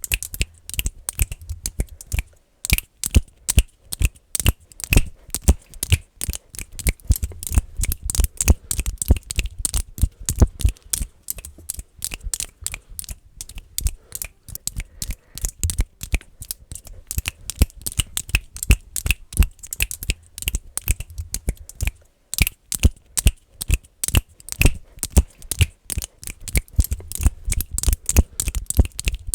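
Fast, aggressive finger clicking close to the microphone: a dense run of rapid, irregular clicks with deep thumps under them, broken by two short pauses.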